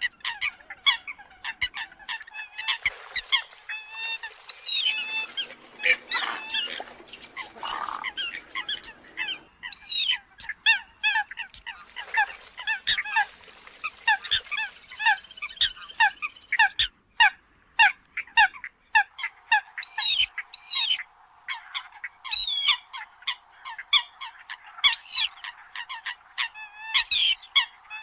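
Eurasian coots calling: a dense, rapid run of short, sharp honking calls and clicks from several birds, a flock-call recording of the kind used to lure coots.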